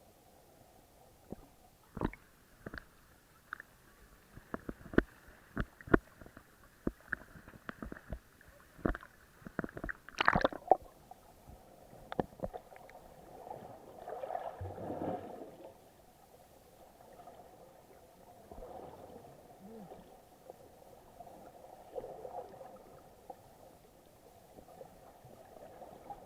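Water sounds heard through an action camera's waterproof housing: a run of sharp clicks and knocks, loudest about ten seconds in, then muffled gurgling and sloshing.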